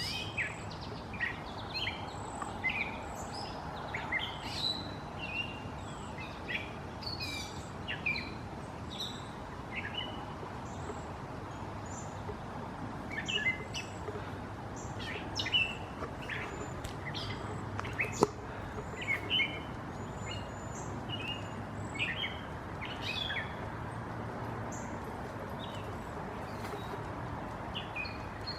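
Wild songbirds singing and calling: many short, high chirps and whistled notes at irregular intervals, over a steady low background hum.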